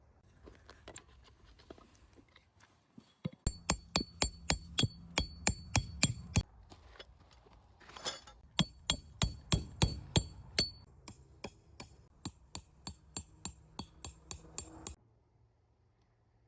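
Repeated sharp strikes with a metallic ring, about three to four a second, in two runs broken by a louder clank about eight seconds in.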